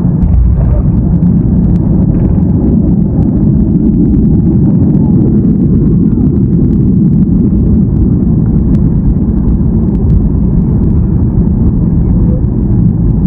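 Steady, loud low rumble inside the cabin of a Boeing 737-800, from its CFM56 engines and the rush of air past the fuselage.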